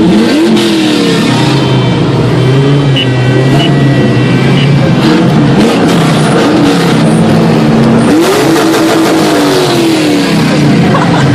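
Many car engines revving at once, a dense overlapping mix of engines held at steady revs while others rise and fall in pitch.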